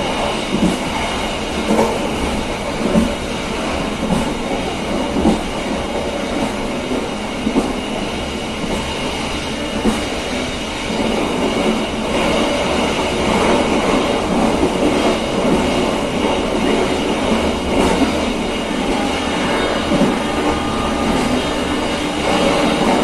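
KA Serayu passenger train running along the track: a steady rumble and rush of wheels on rails, with scattered short clicks from the running gear.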